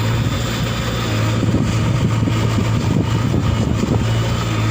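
Heavy diesel engine running with a steady low hum that turns rougher and uneven through the middle, typical of a stuck JCB backhoe loader or tractor working.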